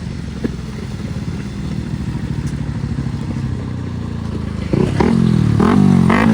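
Motorcycle engine running steadily; about five seconds in it gets louder, with the revs rising and falling several times.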